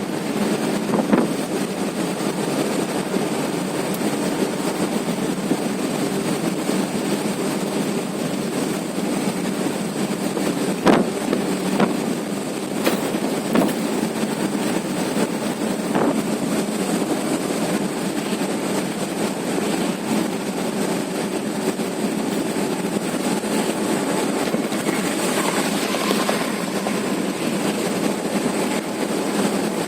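Truck running along a highway with steady engine and road noise, broken by a few sharp knocks and clatters, the loudest about eleven seconds in.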